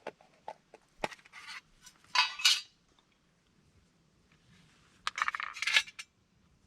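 Metal objects clinking and rattling, in the way camp pots and utensils do when handled: a few light knocks, then two short clattering bursts, about two seconds in and again about five seconds in.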